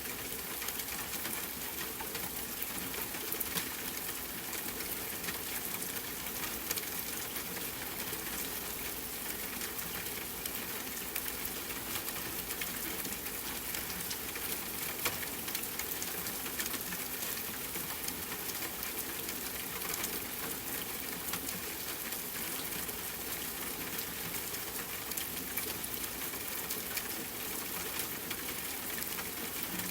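Steady rain hiss mixed with a crackling wood fire: many small sharp pops scattered throughout, a few of them louder.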